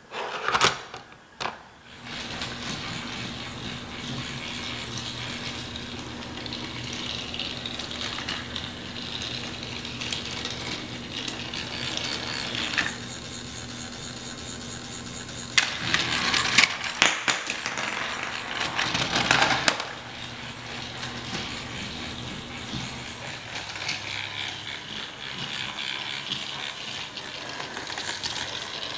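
Battery-powered Trackmaster Thomas toy engine running on plastic track, its small motor and gears whirring steadily after a couple of clicks at the start. From about halfway, for some four seconds, it gives way to a louder plastic clattering and rattling.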